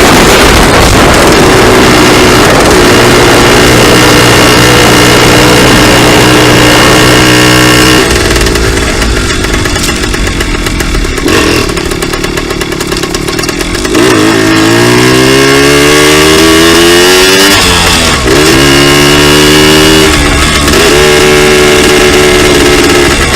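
Two-stroke dirt bike engine running hard at a steady high pitch, easing off for a few seconds about a third of the way in, then accelerating again in several rising sweeps of pitch with short dips between them.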